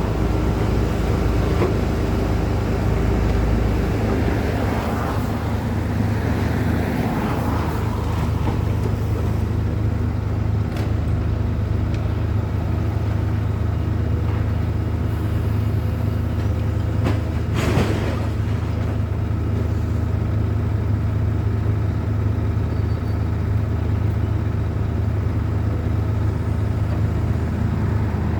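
Engine running steadily with a constant low hum, and a brief harsh noisy burst about eighteen seconds in.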